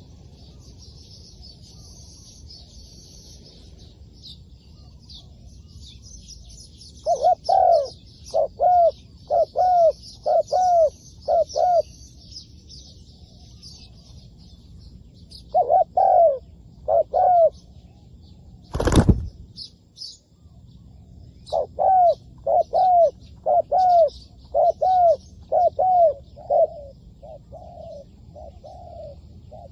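Spotted doves cooing in runs of repeated deep coo notes, in three bouts with pauses between. A single sharp knock about two-thirds of the way through is the loudest sound. Faint high chirping of small birds runs underneath.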